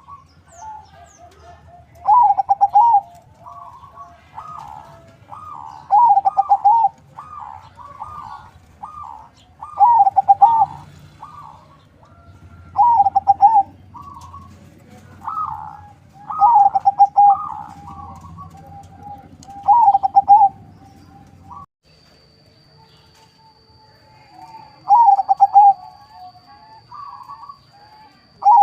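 Zebra dove (perkutut), a local × Bangkok crossbred, cooing in its repeated rhythmic song: a loud coo phrase about every three to four seconds with softer calls in between. A low background hum stops suddenly about two-thirds of the way through, after which a faint steady high tone is heard.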